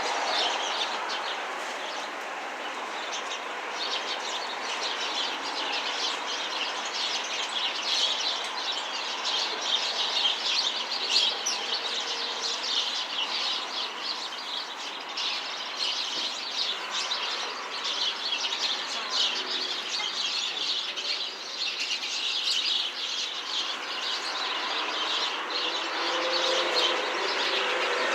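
A flock of small birds chirping continuously, many short overlapping calls in a busy chorus.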